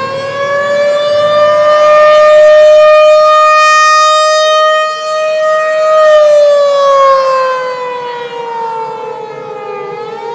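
Civil defense siren wailing. Its pitch holds high for about six seconds, then slowly falls, and it starts rising again near the end.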